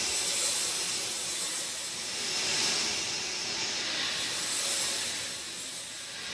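Steady rain noise, an even hiss that swells and eases every two seconds or so.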